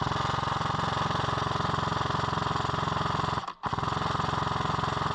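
Airsoft light machine gun firing full-auto in two long bursts with a rapid, even rattle, broken by a short pause about three and a half seconds in.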